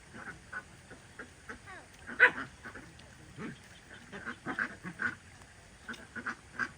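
Ducks quacking: an irregular run of short calls, the loudest a little over two seconds in.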